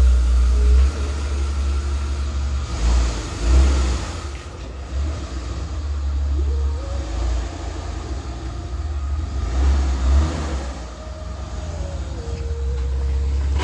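Jeep Wrangler TJ's engine running with a deep, uneven rumble, its note rising a couple of times partway through.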